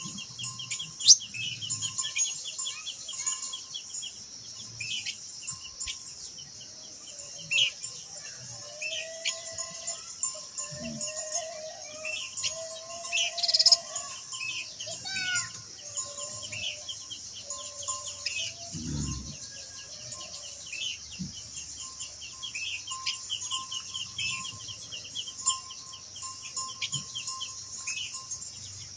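Minla (khướu lùn) birds singing: rapid chirps and short whistled phrases, over a steady high insect hiss. A single low thump comes about 19 s in.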